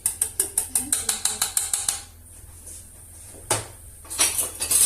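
A kitchen utensil clicking rapidly against a pot while stirring thickened lemon pastry cream, about eight taps a second for two seconds. A single knock follows, then another quick run of taps near the end.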